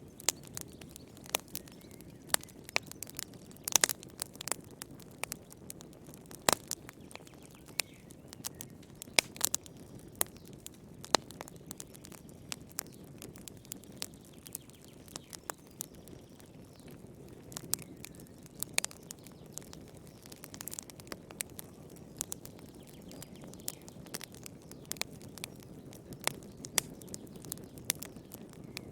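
Fire crackling in a fireplace: irregular sharp pops and snaps, a few louder than the rest, over a low steady rush.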